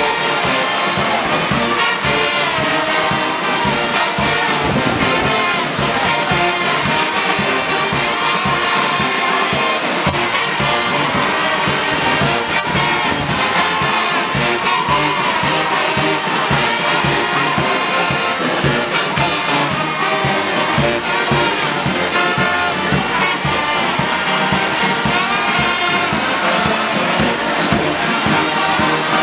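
Brass band playing, trombones and trumpets carrying sustained melody notes over a steady beat.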